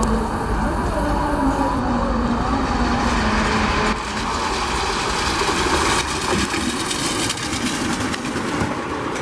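Train running by: a steady rumble and rail noise, with some wavering squeal in the first few seconds. The sound changes abruptly about four and six seconds in.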